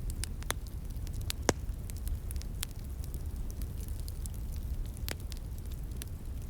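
Wood fire crackling, with irregular sharp pops, the loudest about one and a half seconds in, over the steady low rush of a flowing stream.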